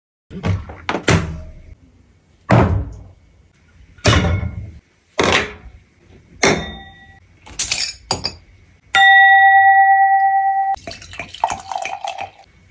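A series of sharp knocks and clatters of cookware, each with a short ring, then one long electronic beep lasting about two seconds, followed by more clattering.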